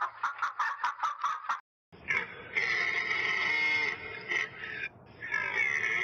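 Hens clucking in quick short pulses, about five a second. After a brief gap a bull elk bugles twice: a long, shrill, high whistle held for a couple of seconds each time.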